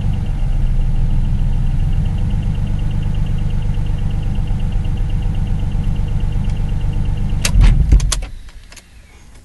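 Twin-turbocharged Acura Legend V6 running at a fast idle of about 2,000 rpm, with a quick steady ticking over the engine note. About eight seconds in it is switched off: a few sharp clicks and a clunk, then the engine sound stops.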